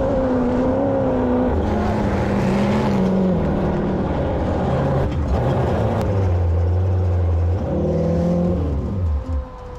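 Off-road vehicle engine running hard at high revs with its throttle stuck open, the pitch wavering and stepping, then falling away and dying down near the end.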